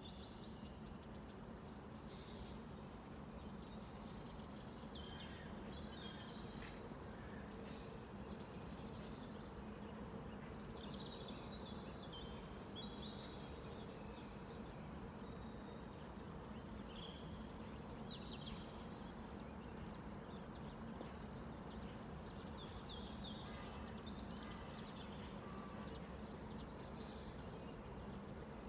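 Small birds chirping and twittering over and over, short high calls coming in clusters throughout, over a steady low background hum.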